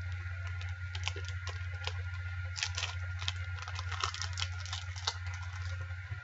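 Close-up chewing of a peanut, almond and dark chocolate chewy bar: irregular small mouth clicks and ticks, thickest in the middle, over a steady low hum.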